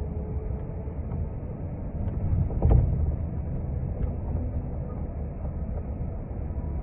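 City transit bus running, heard from inside the cabin: a steady low rumble of engine and road, with a few light rattles and a louder thump a little under three seconds in.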